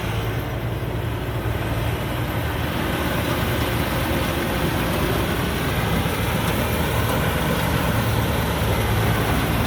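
Combine harvester with a Hino JO8C six-cylinder turbo diesel running hard while harvesting rice: a steady low engine drone under a wide mechanical noise, growing slightly louder toward the end.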